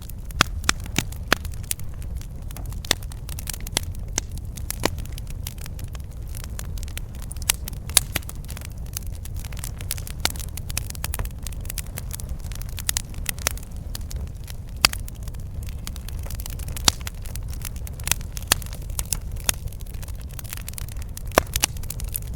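Campfire crackling, with irregular sharp pops and snaps of burning wood, a few much louder than the rest, over a steady low rumble of the fire.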